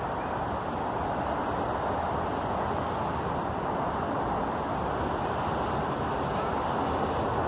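Steady rumble of a jet airliner's engines, growing slightly louder toward the end.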